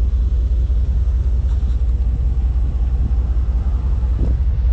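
Ford F-150 pickup's engine running at a steady low rumble, with no revving.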